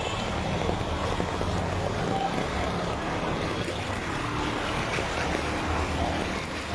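Floodwater flowing and rushing in a strong current along a flooded street, with wind on the microphone and a low steady hum underneath.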